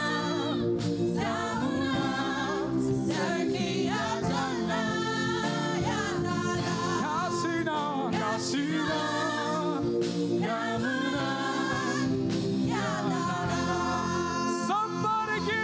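Gospel praise singing, voices with a choir over a steady instrumental backing.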